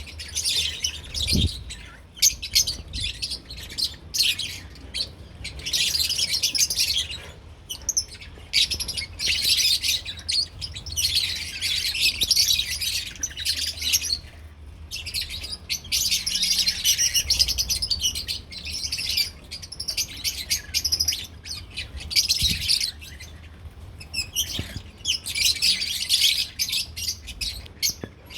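Lovebirds (Agapornis) chirping and chattering in high-pitched bursts of a second or few, with short pauses between them.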